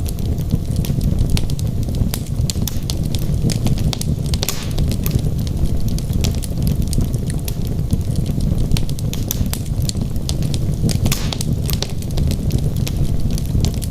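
Wood logs burning in a fireplace, crackling: frequent sharp pops and snaps over a steady low rumble of the fire, with two brief louder bursts, about a third of the way in and near the end.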